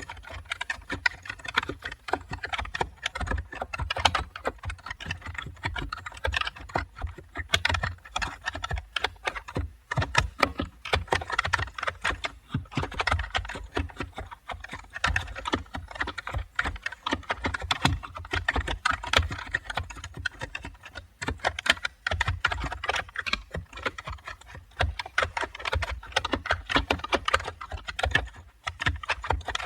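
Continuous typing on a computer keyboard: dense, irregular key clicks with short pauses here and there.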